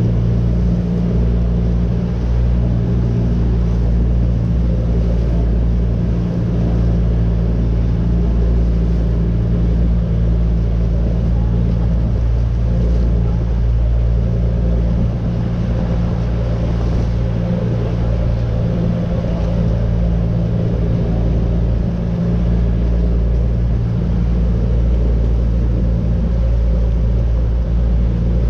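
Boat engine running at a steady speed: a loud, even, low drone that does not change.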